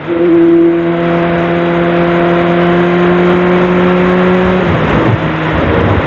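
Sportbike engine running at a steady pitch under throttle while riding, with a steady rush of wind noise. A brief dip comes at the very start, and about three-quarters of the way through the engine note falls away as the throttle is closed.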